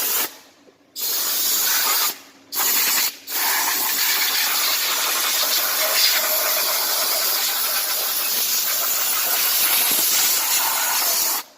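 Compressed-air blow gun blasting air into a car's engine bay to blow out dirt and water and dry it off. A few short blasts come first, then one long steady blast that cuts off just before the end.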